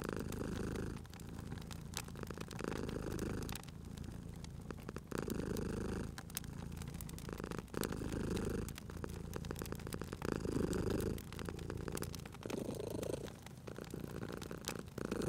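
A domestic cat purring, swelling and easing about every two and a half seconds with each breath. A wood fire crackles underneath with frequent sharp pops.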